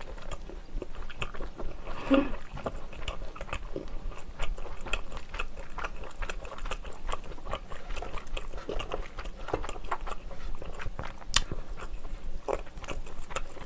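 Close-miked chewing of a mouthful of grilled cheese, with soft wet mouth clicks and smacks. A brief low hum comes about two seconds in, and a single sharp click comes near the end.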